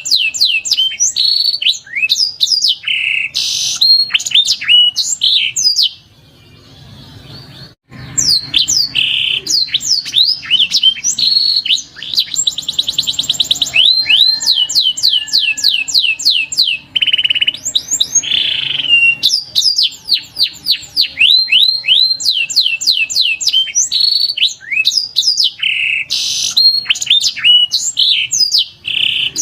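Domestic canary singing: long runs of rapidly repeated, upward-sweeping high notes and fast rolling trills. The song breaks off for about two seconds about six seconds in, then carries on.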